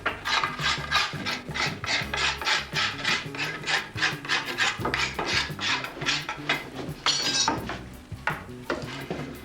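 A hand tool rubbed quickly back and forth over wood, about four to five scratchy strokes a second, slowing to a few separate strokes near the end.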